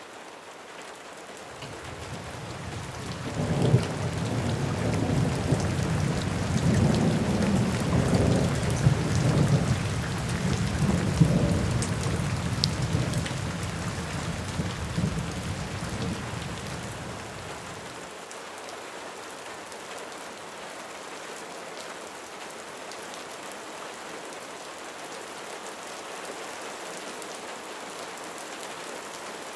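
Steady rain falling on a roof, with a long roll of thunder that builds a couple of seconds in, rumbles loudest for several seconds, then dies away a little past halfway, leaving only the rain.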